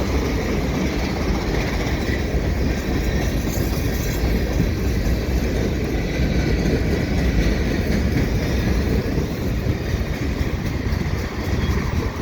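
Freight train cars rolling past on the rails with a steady rumble of wheels and couplers. Wind buffets the microphone.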